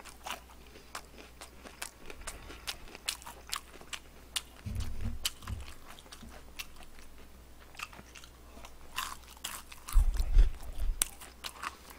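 Close-miked chewing of crispy fried chicken, with irregular crunching clicks, and two short bursts of low thumps about five seconds in and at about ten seconds.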